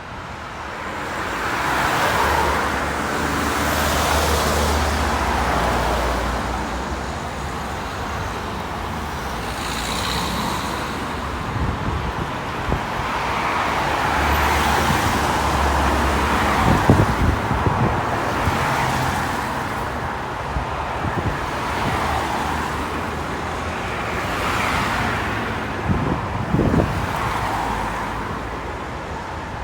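Road traffic passing: cars and heavier vehicles one after another, each swelling and fading as it goes by, with the low engine note of a large vehicle heard twice and a few short knocks.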